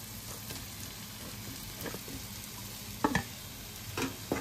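Boiled potato pieces sizzling as they drop into hot oil and spice masala in a non-stick kadhai, then a spatula stirring them, knocking against the pan three times in the last second and a half.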